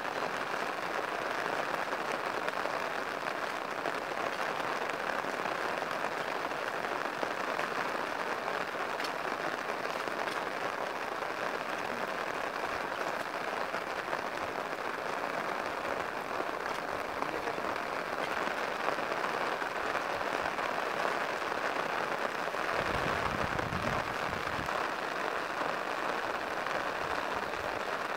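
Steady rain falling on a wet grassy field, an even hiss throughout. Near the end a brief low rumble rises under it for a couple of seconds.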